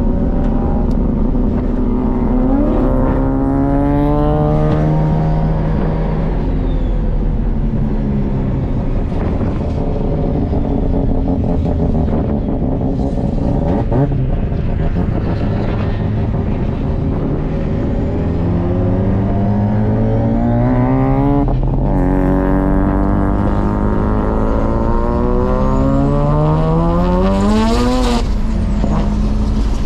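Car engine heard from inside the cabin of a Nissan Skyline R32 on a race track, revs climbing and falling as it accelerates. A short rise comes a few seconds in, then a long climb through the second half that drops back sharply near the end.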